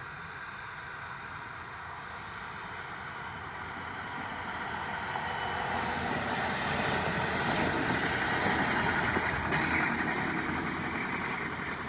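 NJ Transit train approaching and passing, its wheel and rail noise building steadily to a peak about eight to ten seconds in and then easing slightly.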